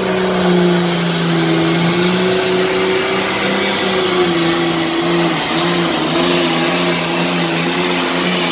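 Super-farm-class Case International pulling tractor's diesel engine running at full throttle under load as it drags the sled down the track, holding a steady high pitch that wavers slightly.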